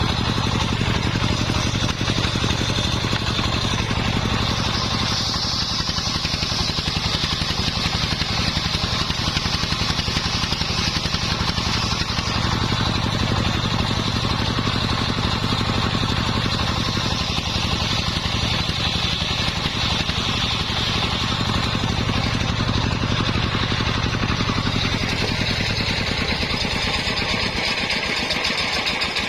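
Engine-powered homemade circular sawmill running steadily, its engine humming under load while the blade's high hiss grows and fades as it works through kenanga wood.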